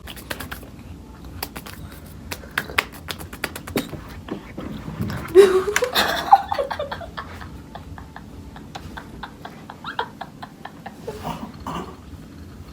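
A person's voice, a short laugh or exclamation rising in pitch, about five seconds in, over many scattered light clicks and taps.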